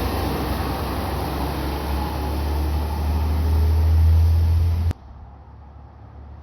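Engine of a CNG Peterbilt 520 garbage truck running with a deep low rumble that grows louder toward about four seconds in, then cuts off suddenly just before five seconds, leaving a much quieter background.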